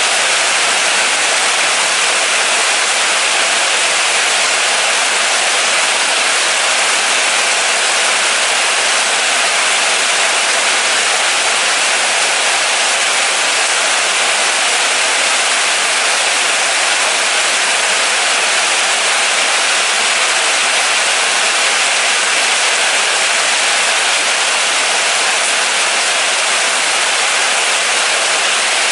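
Steady moderate rain falling: an even, unbroken hiss with no separate drops or thunder standing out.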